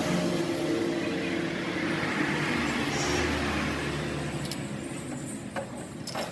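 A motor vehicle's engine running, slowly fading, with a few light knocks near the end.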